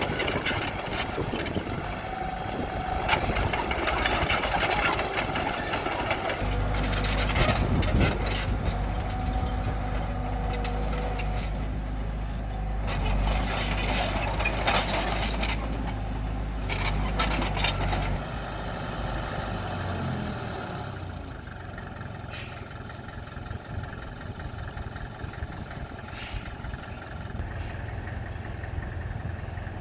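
Bulldozer working: a heavy diesel engine drones under repeated metallic clanks and scraping. The deep engine note eases off about two-thirds of the way through, leaving a quieter idle.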